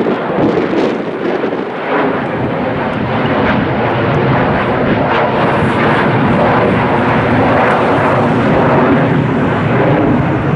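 Jet airliner engines at takeoff power: a loud, steady jet noise that builds about two seconds in and then holds.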